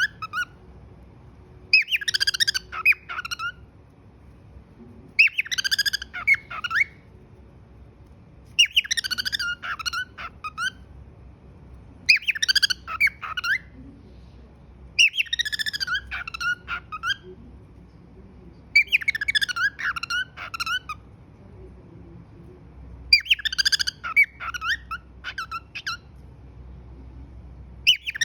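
Pet cockatiel whistling and chirping a short warbling phrase over and over, about once every three and a half seconds, with brief pauses between.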